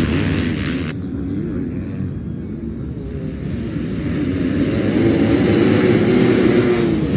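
Off-road dirt bike engines revving under racing load. The sound drops away sharply about a second in and builds back up over the last few seconds, the pitch climbing near the end.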